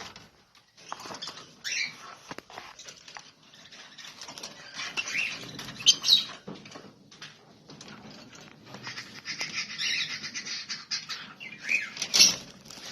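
Lovebirds chirping: a busy run of rapid high chirps and clicks, with a few louder shrill calls about two, six and twelve seconds in.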